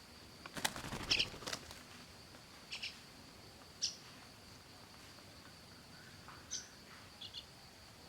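Parrots giving short, high chirps, about five scattered calls, with a brief cluster of clicks and rustling about a second in, over a faint steady high whine.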